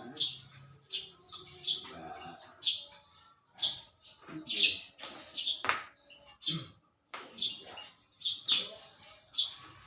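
Small birds chirping: short, high-pitched calls repeated every half second to a second.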